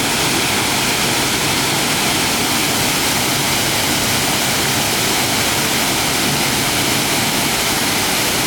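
Waterfall water rushing, a loud steady rush of falling water.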